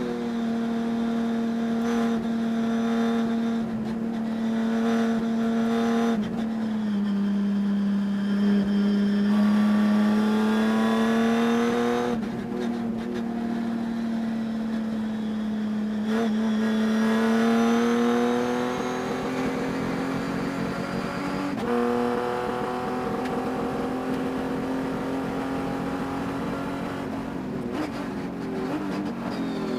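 Race engine running hard at high revs, its pitch holding steady, then dropping and climbing again several times as the vehicle slows and accelerates. The engine has a high-RPM miss that the owner could not cure.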